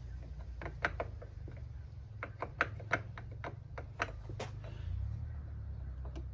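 Small metal clicks and taps, about a dozen irregular ones, as a part is worked onto the wood lathe's keyed spindle. It catches on the spindle end, which is burred (mushroomed) from hammering. A steady low hum runs underneath.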